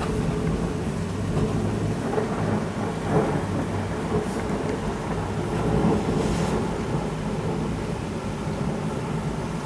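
Thunder rumbling low and continuously over steady heavy rain, swelling a couple of times.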